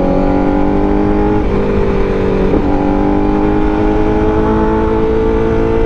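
Honda CBR1000RR-R SP's inline-four engine pulling hard in second gear, its pitch climbing steadily as the bike accelerates, easing off briefly about a second and a half in and again a little later.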